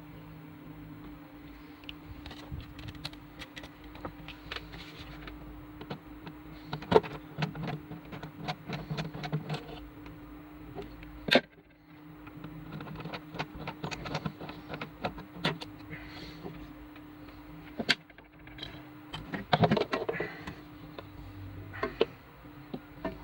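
Scattered clicks, taps and knocks of small hard parts and tools being handled, over a steady low hum, with a louder clatter near the end.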